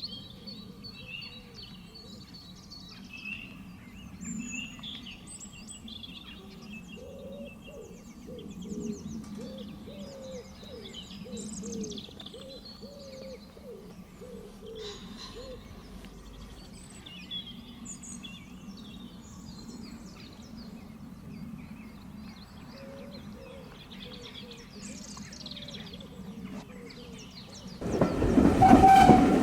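Birds chirping and singing, with runs of short lower calls and a faint steady hum beneath. Near the end a train comes in suddenly and much louder, its wheels clattering on the rails.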